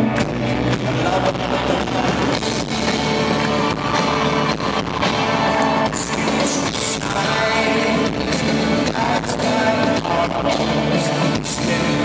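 Live rock band playing an instrumental stretch of a song, heard in an audience recording: drums keep a steady beat under guitars, with weak bass.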